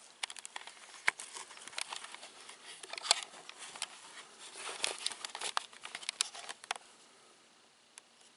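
Close, crinkly rustling and handling noise: a quick run of irregular crackles and clicks that stops about seven seconds in, with one more faint click near the end.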